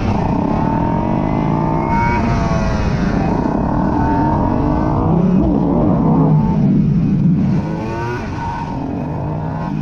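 Aprilia RS 125's single-cylinder 125 cc engine under acceleration, its pitch rising and dropping back several times as it shifts up through the gears. Near the end it settles at a steadier, lower pitch.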